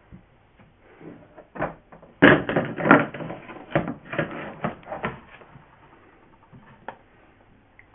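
A run of close knocks, taps and rustles, as of objects being handled and moved about, thick for about three seconds and then thinning to a few scattered taps.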